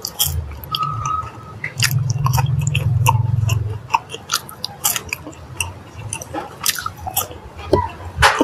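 Close-up mouth sounds of someone eating fried chicken and french fries: wet chewing, lip smacks and many short crisp clicks. A low steady hum runs for about two seconds midway.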